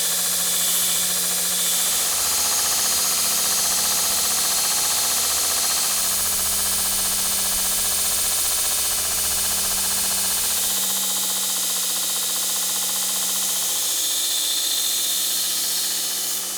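Electric metalworking power tool running steadily on metal: a continuous loud hiss over a low motor hum.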